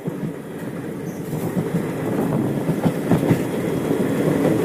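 Train running on rails, a steady rumble with scattered wheel clicks and knocks, growing steadily louder.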